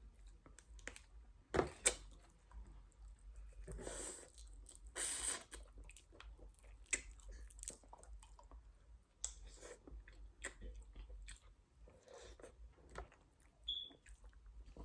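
Close-miked eating in a mukbang: chewing and crunching food, with irregular sharp clicks and cracks and two longer noisy bursts about four and five seconds in.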